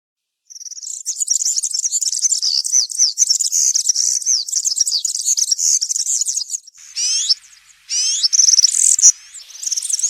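European serin singing its fast, high-pitched jingling song in the wild 'campero' style. It starts about half a second in and breaks off briefly. Two short phrases of quickly repeated rising notes follow, then the song resumes near the end.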